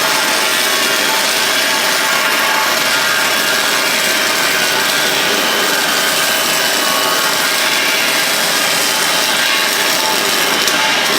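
MIG welding arc from a PowerWave S350 welder running wire, a steady crackling hiss with a few sharp ticks near the end.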